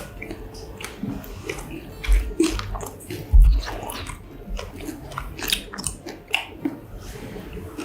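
Close-miked biting and chewing of a mozzarella corn dog: a run of short mouth clicks and smacks, with two dull thumps about two and three and a half seconds in.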